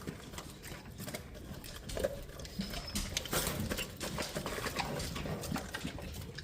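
Mastiff puppy eating a large raw meal of meat and bone: irregular wet chewing, crunching and smacking.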